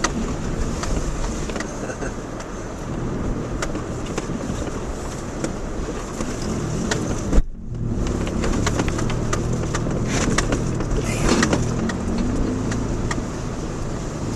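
Subaru Outback driving along a rough dirt road, heard from inside the car: steady engine and tyre noise with scattered clicks and knocks. The sound breaks off for a moment about halfway and picks up again a little louder.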